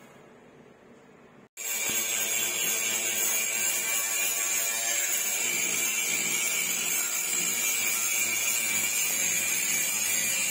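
A high-pitched power tool running steadily at constant speed, with a fixed whine over a hiss. It cuts in abruptly about a second and a half in.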